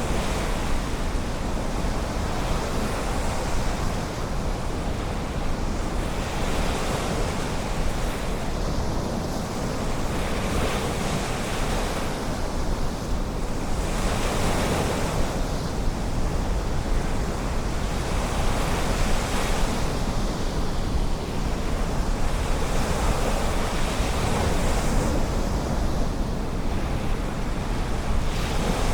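Ocean surf washing in and breaking, a wave swelling every few seconds over a steady low rumble, with wind buffeting the microphone.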